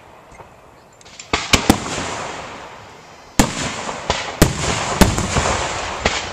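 Aerial firework shells bursting. A quick run of three sharp bangs comes about a second in. Heavier booms follow about a second apart from just past three seconds, each with a long echoing tail.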